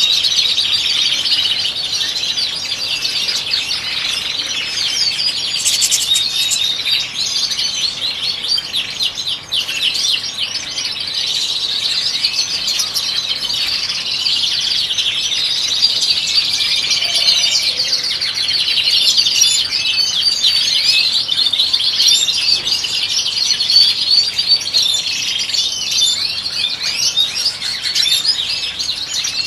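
European goldfinches singing: a continuous, dense twittering of quick trills and chirps, with several birds overlapping.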